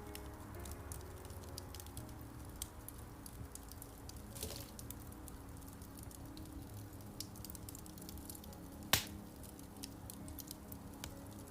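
Wood fire in a fireplace crackling, with many small pops, one much louder pop about nine seconds in and a brief hiss near the middle, over soft piano music.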